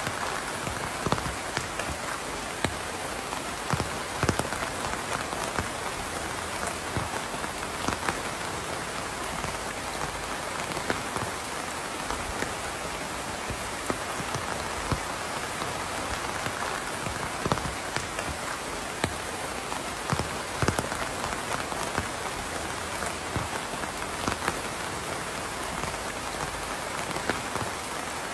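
Steady rain falling on a surface, a dense even patter with many individual drops tapping out distinctly.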